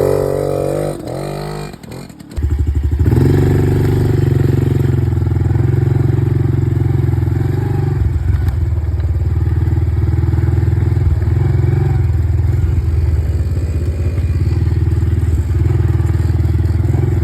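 Dirt bike engine close by, revved up as it pulls away about two seconds in, then running steadily under throttle.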